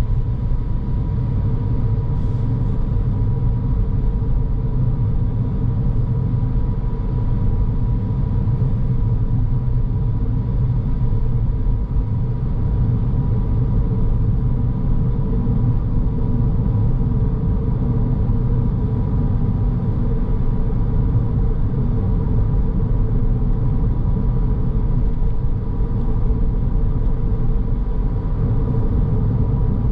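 A car driving steadily, its low engine and road rumble unbroken, with a faint steady tone running through it.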